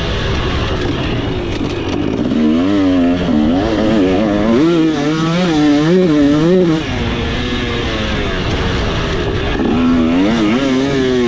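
2026 KTM 300SX single-cylinder two-stroke dirt bike engine being ridden hard, its note swinging rapidly up and down with the throttle, several quick wavers from a few seconds in and again near the end.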